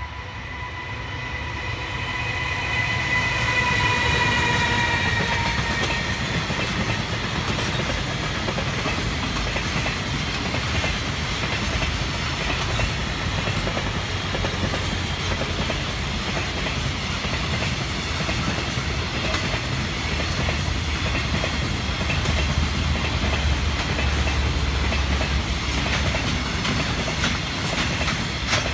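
JR Freight EF210 electric locomotive hauling a container train past: a steady pitched whine from the locomotive fades out about six seconds in. A long line of container wagons follows, rolling by with a continuous rumble and wheels clattering over the rail joints.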